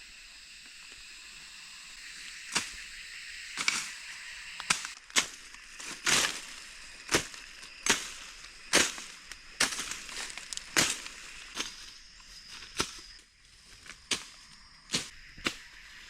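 A series of sharp, sudden knocks or strikes, irregular at roughly one or two a second, loudest in the middle, over a steady high-pitched drone.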